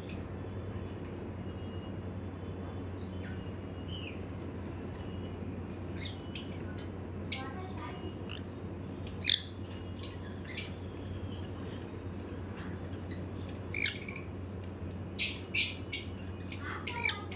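Baby sun conure giving short chirps and squawks, single ones spaced apart and then a quick cluster near the end, over a low steady hum.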